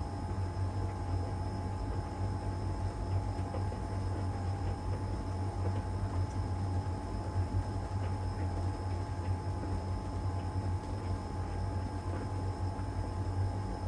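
LG heat pump tumble dryer running mid-cycle in its drying phase: a steady low hum from the compressor and fan with a constant thin whine above it, while the drum turns and the load tumbles with faint light knocks.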